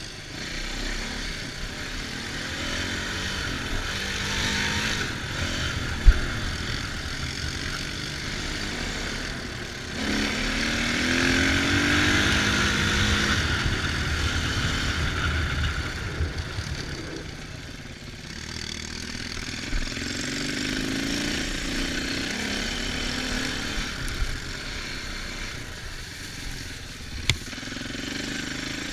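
Dirt bike engine running under riding load, revving up with a rising pitch about ten seconds in, easing off, then climbing again later. A single sharp knock sounds about six seconds in.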